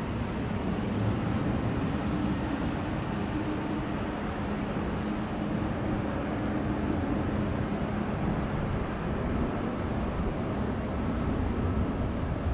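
Steady vehicle running noise: a low rumble with a faint hum.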